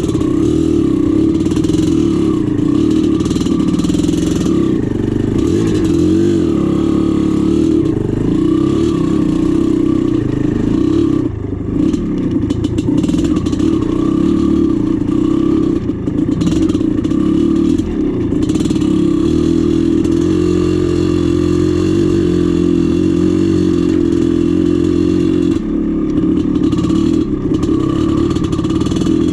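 1996 Maico 440's single-cylinder two-stroke engine running under load while trail riding, the throttle going on and off with brief dips in loudness, along with some clatter.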